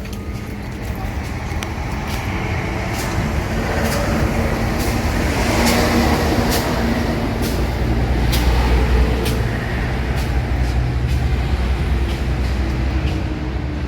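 A heavy vehicle's engine rumbling nearby, swelling louder through the middle and easing off towards the end, with sharp clicks every second or so throughout.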